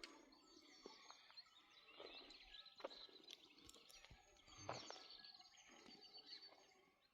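Faint bird chirps over quiet outdoor background, with a few soft clicks.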